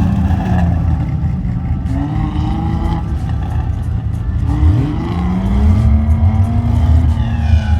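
A car engine running with a deep exhaust rumble and revved up and down several times, with a sharp rise in pitch about halfway through.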